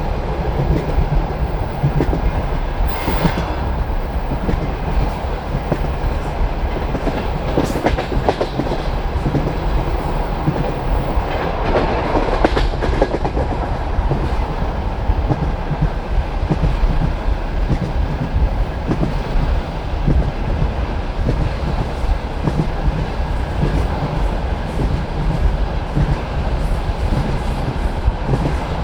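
Passenger coach wheels clattering over the rail joints with a steady rolling rumble, heard from inside the moving train. A few brief, sharper noises stand out early and around the middle.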